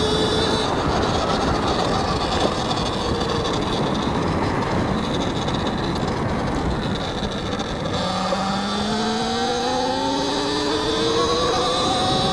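Talaria X3 electric dirt bike's motor whining under steady wind and tyre rush while riding. The whine fades after the first second, then climbs steadily in pitch over the last few seconds as the bike accelerates.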